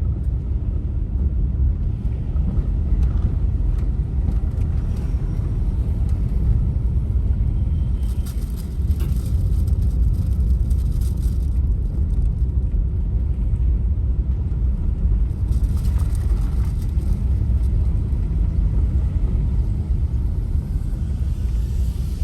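Steady low road and engine rumble of a van being driven, with brief rattles and hiss about eight seconds in and again around sixteen seconds.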